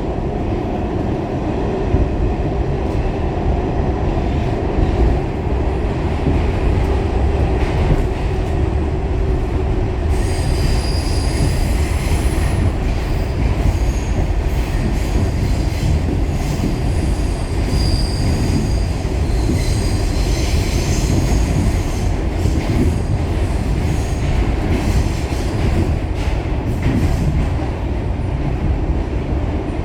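Pullman-Standard R46 subway car running along the track: a steady heavy rumble of wheels on rail, joined about a third of the way through by high, shifting wheel squeal that comes and goes.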